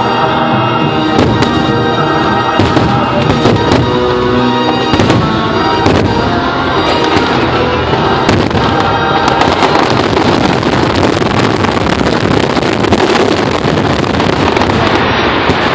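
Fireworks bursting over the show's music soundtrack: single bangs for the first half, then from about nine seconds in a dense barrage of bangs and crackling that drowns out the music, typical of a fireworks finale.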